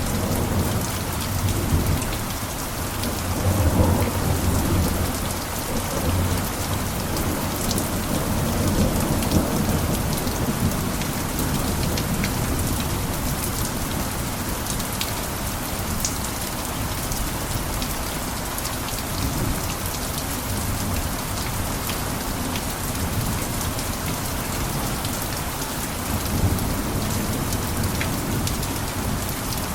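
Steady heavy rain falling on a roof, a constant hiss with scattered drop ticks. A low rumble swells about three to four seconds in and again near the end.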